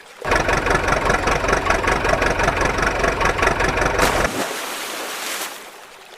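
A motor engine running loudly, starting abruptly and cutting off after about four seconds, followed by a quieter hiss that fades away.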